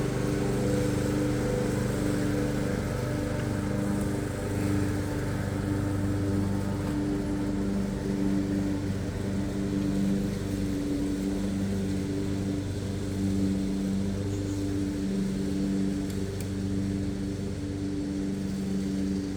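A steady humming drone at an unchanging pitch, like a small motor running.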